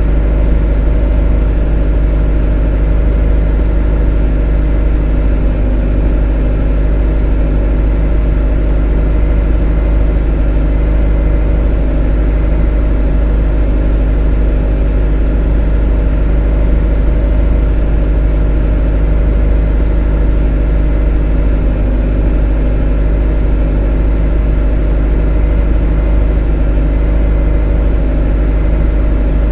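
A motor running steadily at a constant speed, a monotonous drone with a strong low hum and a stack of steady tones above it, unchanging throughout.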